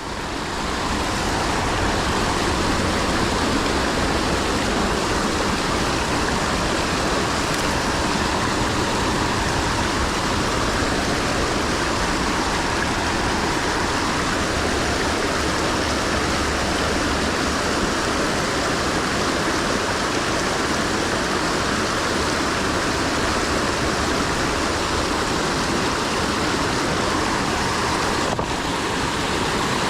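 Creek water rushing steadily in a current, a loud, even wash of noise.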